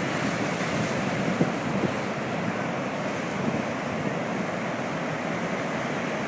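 Ocean surf breaking steadily, with wind buffeting the microphone in a low, gusty rumble.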